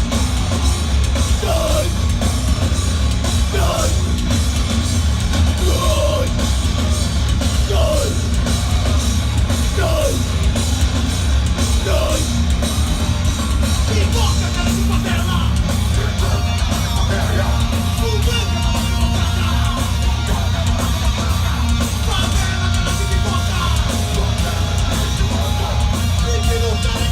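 A live heavy metal band playing loud and steady: drum kit and heavy bass under the guitars, with yelled vocals.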